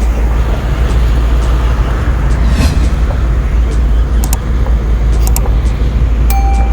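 Vehicle in motion with road and traffic noise: a steady, heavy low rumble with scattered clicks and rattles. A short horn beep sounds near the end.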